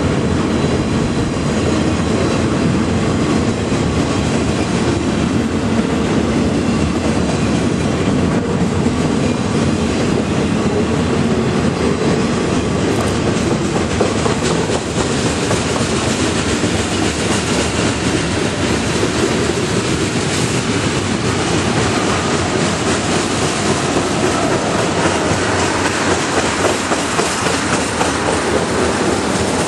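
Freight train cars rolling past at close range: a steady, loud rumble of steel wheels on the rails, with continuous clickety-clack as the wheels cross the rail joints.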